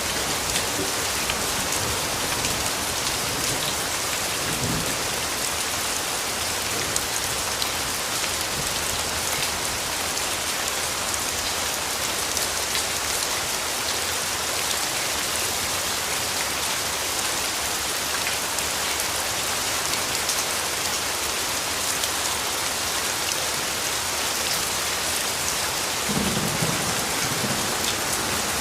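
Steady rain falling on a surface, an even hiss with many small drop patters. Twice, about four seconds in and again near the end, a brief low rumble of distant thunder sits under it.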